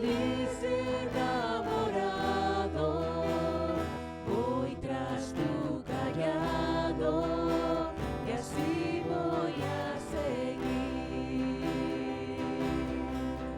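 Group of voices singing a Christian praise song in Spanish, with instrumental accompaniment that includes guitar.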